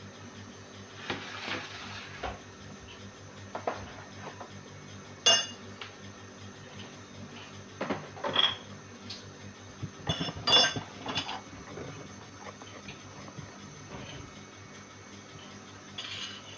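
Kitchen dishes, pots and cutlery being handled: scattered knocks and clinks, several ringing briefly, the loudest about five seconds in and a cluster around ten to eleven seconds, over a low steady hum.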